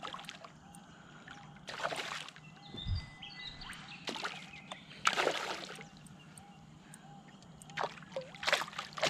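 Water splashing and sloshing beside a fishing kayak in three short bursts, with a dull knock about three seconds in, as a hooked bream is brought in.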